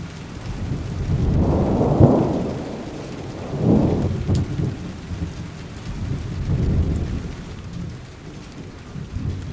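Steady rain with rolling thunder, the rumble swelling up twice, about two seconds in and again near four seconds.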